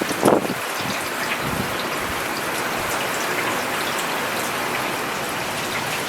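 Steady rain falling on a paved road: a dense, even hiss with many small drop ticks. A brief louder burst stands out about a third of a second in.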